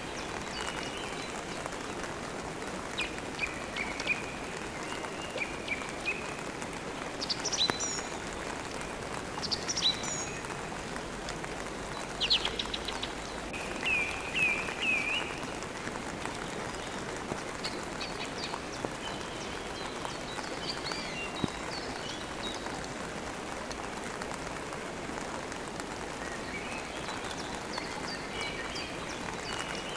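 Steady rain with songbirds chirping over it in short, scattered calls, the busiest stretch a little before the middle.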